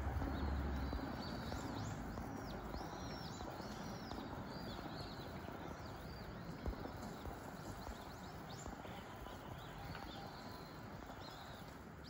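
Small birds chirping: many short, high, arched notes come one after another over a steady background hiss, with one sharp tick about seven seconds in.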